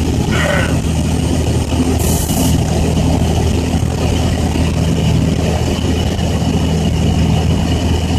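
Caterpillar C10 inline-six diesel in a loaded dump truck running steadily at cruise, its pitch holding even. A brief hiss sounds about two seconds in.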